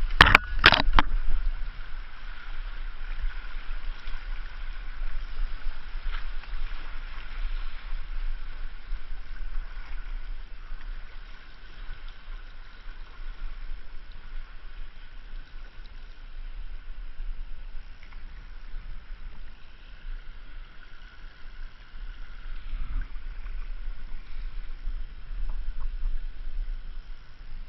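River water rushing and gurgling around a kayak, with a steady low rumble underneath. A few sharp knocks come about a second in.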